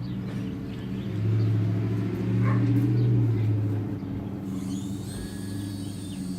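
Low, steady engine hum of a vehicle, growing louder for a few seconds about a second in and then easing off.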